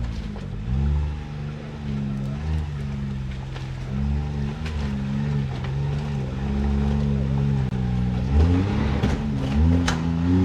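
Can-Am Maverick X3 Turbo side-by-side's three-cylinder engine revving up and down in repeated throttle blips while crawling an obstacle, with a few sharp knocks near the end.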